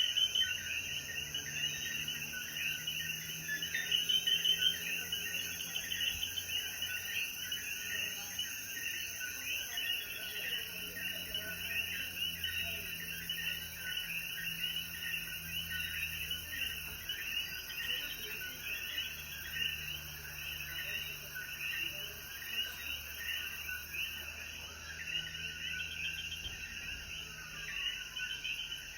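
Chorus of coquí frogs after rain: many overlapping short, high calls repeating all the way through, with a faint steady high insect tone under them for the first few seconds.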